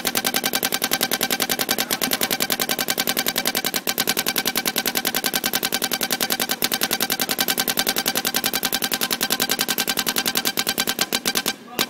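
Planet Eclipse Geo 2.1 spool-valve paintball marker firing a long rapid string, about ten shots a second, each shot carrying an odd buzzing tone. The weird sound is caused by the marker's dwell being set high. The string stops shortly before the end.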